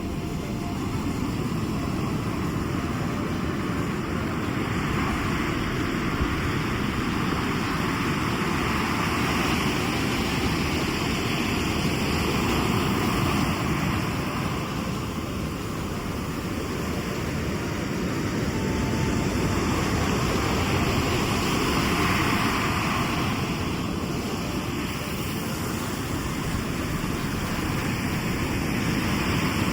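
Sea surf: waves washing onto the shore in a continuous rush that swells and eases every several seconds.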